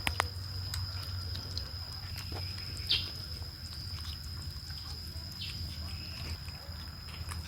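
Kittens eating, with scattered small clicks and smacks of chewing over a steady low hum and a constant high thin tone.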